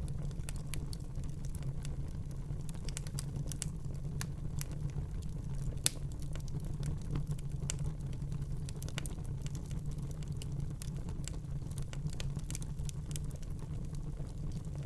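Wood fire burning in a fireplace: a steady low rumble of the flames with irregular crackles and small pops, one sharper pop about six seconds in.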